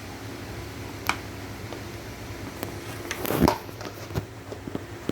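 Kitchen utensil handling at a cooking pot: a few sharp clicks and clinks, with a louder brief scrape about three and a half seconds in, over a steady fan-like hum.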